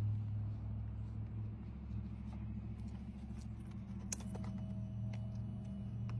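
Honda CRF110's small single-cylinder four-stroke engine idling steadily with a low, even hum.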